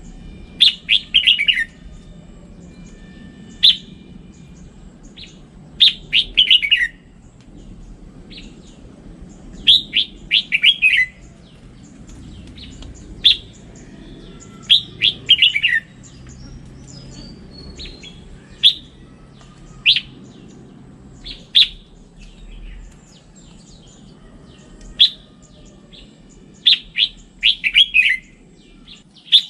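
Red-whiskered bulbul singing: short phrases of quick, clear whistled notes, repeated every few seconds with pauses between them.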